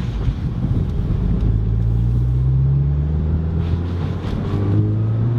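Volkswagen Golf GTI Mk8's turbocharged 2.0-litre four-cylinder running through an aftermarket X-Force exhaust in sport mode, heard from inside the car with the windows down. The exhaust note climbs gently about two seconds in and rises again near the end as the car is driven.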